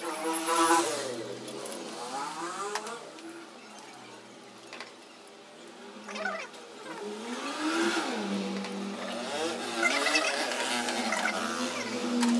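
Car engine revving up and down several times over a steady idle, the pitch rising and falling in arches about every one to two seconds.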